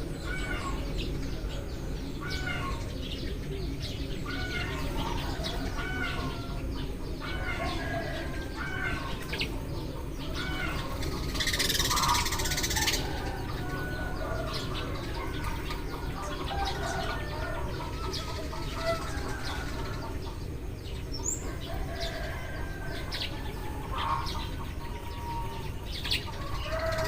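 A group of Eurasian tree sparrows chirping busily in short repeated notes, over a steady low background rumble. A brief rushing noise comes about twelve seconds in.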